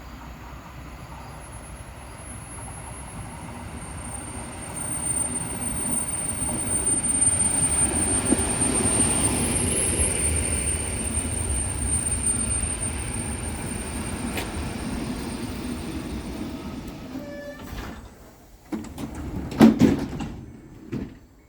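An old EN57 electric multiple unit passenger train runs past, its rumble on the rails swelling to a peak and then fading away, with a thin high whine over the loudest part. A few sharp loud knocks come near the end.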